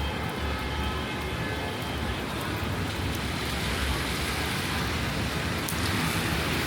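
Steady rain on city streets: an even hiss of rain over the low rumble of traffic on wet roads.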